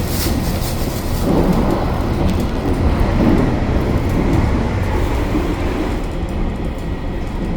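Hokuto limited express diesel train running, heard from inside the carriage: a steady low rumble of engine and wheels on the rails, swelling a little about a second in and easing off toward the end.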